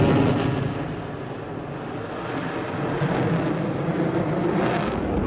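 F-15EX fighter jet's engine roar fading just after it passes, easing off in the first second into a deep rumble that swells slightly again before the end.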